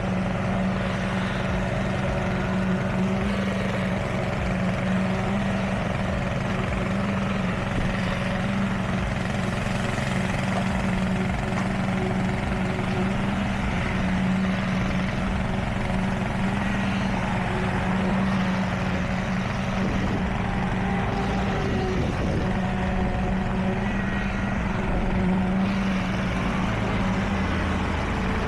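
Heavy construction machinery's diesel engine running steadily, a continuous low drone with no breaks.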